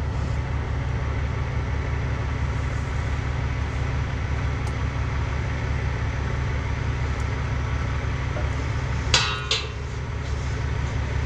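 Heavy diesel truck engine idling steadily. About nine seconds in, two short, sharp metallic clinks ring out over it.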